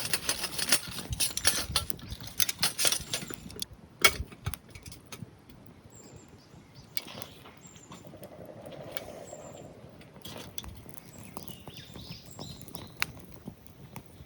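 Wood fire crackling and snapping in a small steel fire pit. The pops are dense for the first few seconds, one sharp crack comes about four seconds in, and then the pops grow sparser.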